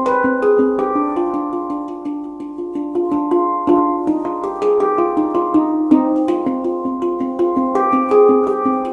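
Meraki handpan played by hand, tuned G/ C D Eb F G Ab B C D: a flowing run of struck notes, several a second, each ringing on and overlapping the next, in an Arabic-sounding minor scale.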